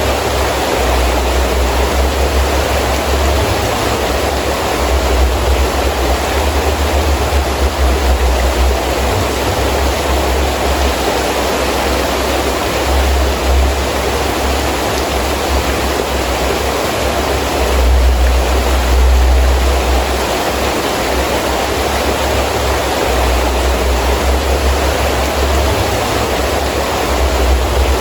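Heavy rain falling steadily, with wind gusts making a low rumble that swells and eases, loudest about two-thirds of the way through.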